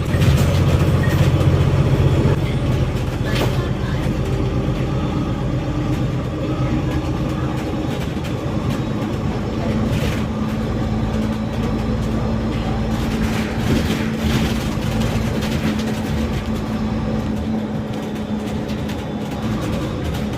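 Inside a moving bus: the engine and road noise run continuously, with a low engine hum that is loudest in the first two seconds. From about nine seconds in a steady whine joins it, and a few short rattles or knocks are heard.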